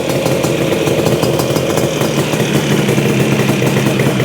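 Yamaha RD400 two-stroke twin idling steadily, started after a long lay-up.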